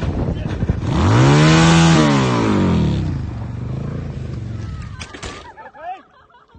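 A motor vehicle's engine, loud, climbing in pitch about a second in and falling away again by about three seconds, over wind buffeting the microphone. Short high squeaks follow near the end.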